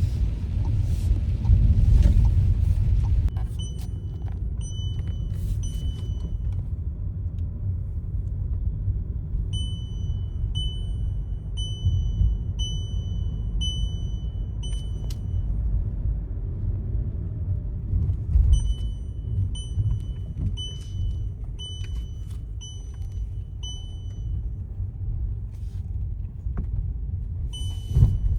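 Steady low rumble with three runs of short, high electronic beeps, about one a second.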